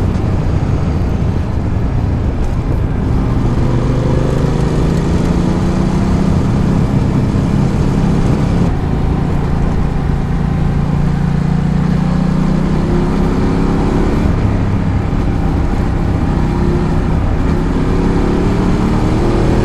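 Ducati Multistrada 1200's V-twin engine pulling while riding, its note climbing gradually for several seconds, falling back about two-thirds of the way through, then climbing again, over a steady rushing noise.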